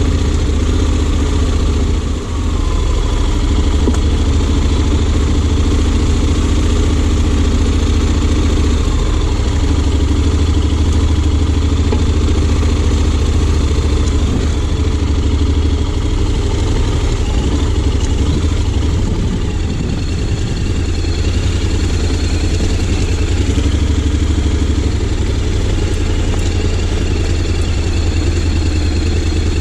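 Honda X-ADV 750's parallel-twin engine running steadily at low revs, with slight rises and dips in engine speed.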